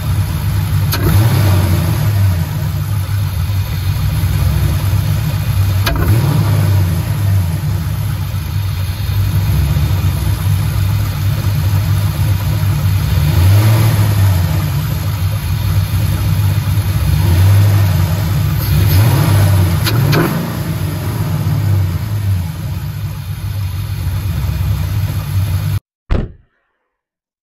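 2004 Pontiac GTO's 5.7-litre LS1 V8 idling and being blipped several times, each rev rising and falling back, while its throttle response is checked after a throttle-cable rework. The sound cuts off suddenly near the end.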